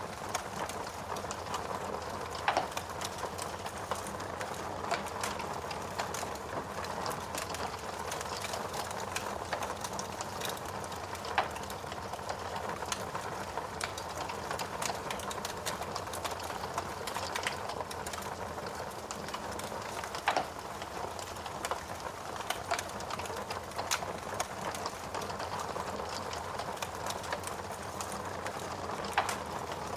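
Wood fire crackling with frequent small clicks and a louder pop about every nine seconds, over a steady hiss of rain.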